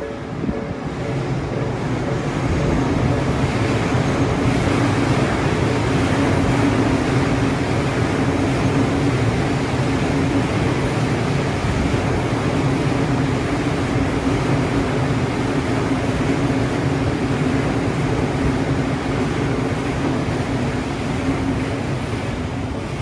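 Odakyu electric commuter train running past at a level crossing: a steady rumble of wheels on the rails with a low hum, swelling over the first couple of seconds and then holding.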